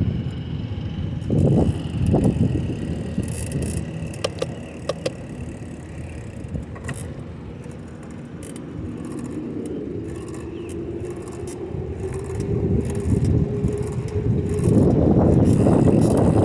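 Wind rumbling over the microphone of a moving bicycle, with a few light clicks and rattles from the bike. A faint steady hum rises slightly in the middle, and the wind rumble grows loud near the end.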